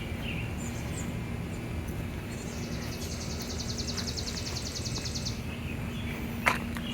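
Outdoor garden ambience: a steady low rumble with a faint steady hum, and a high, rapid trill of about ten pulses a second that starts about two seconds in and lasts about three seconds.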